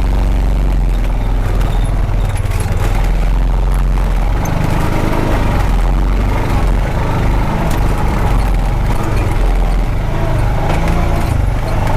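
Honda Pioneer 520 side-by-side's single-cylinder engine pulling under load up a steep, rocky trail in four-wheel drive, its note shifting with the throttle a few times. Occasional knocks and rattles come through.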